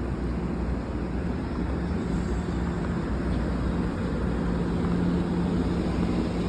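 MARC commuter train running with a steady low rumble and a continuous low hum.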